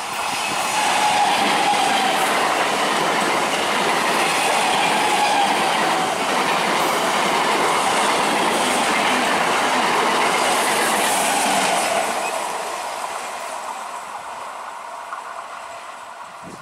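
Old electric multiple unit (EMU) local train passing close at speed, its wheels clattering over the rail joints, with a thin wheel squeal on the curve in the first few seconds. It is loud for about twelve seconds, then fades away as the train recedes.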